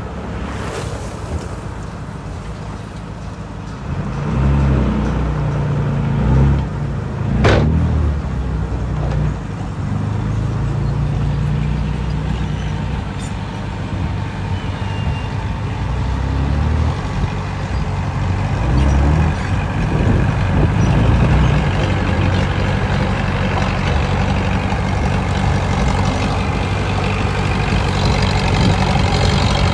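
Heavy diesel construction machinery running, the engine note swelling and easing as it works under load, with one sharp knock about seven and a half seconds in.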